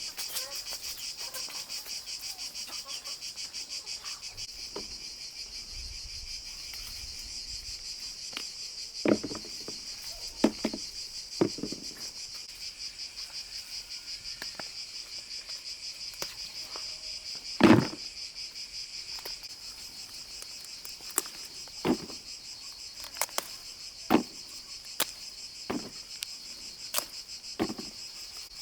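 Crickets chirping in a steady, fast-pulsed trill, with scattered knocks and taps throughout; the loudest knock comes a little past halfway.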